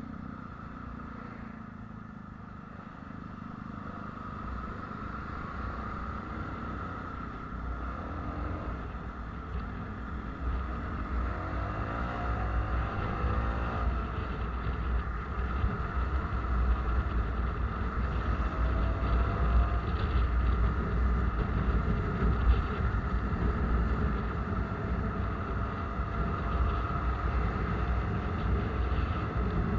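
A vehicle on the move: steady engine and road rumble, growing gradually louder over the stretch as it picks up speed.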